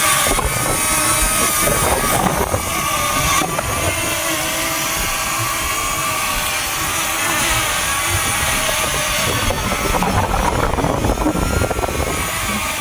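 Small quadcopter drone's propellers whining steadily in strong wind, with wind buffeting the microphone.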